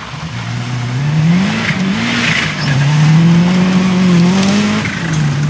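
Rally car engine pulling hard through the gears. Its pitch climbs, drops back at each gear change, and climbs again, growing louder as the car approaches.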